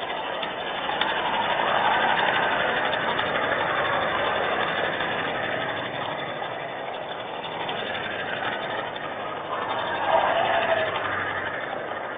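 Vehicle passing, a hiss that swells to a peak about two seconds in and slowly fades, with a second swell near the end.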